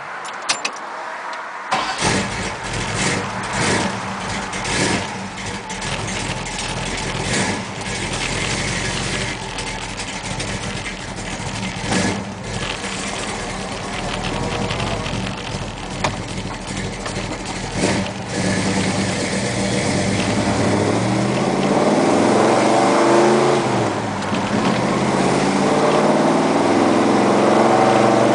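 Mopar 360 V8 of a 1971 Plymouth Satellite, heard from inside the cabin. It is started about two seconds in and then idles with a few short throttle blips. Near the end it revs up and falls back repeatedly as the car pulls away and accelerates.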